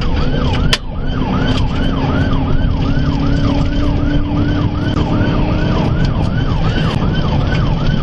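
Police car siren in fast yelp mode, a rapid up-and-down sweep repeating about two and a half times a second, over heavy engine and road noise from a cruiser in a high-speed pursuit. A single sharp click sounds just under a second in.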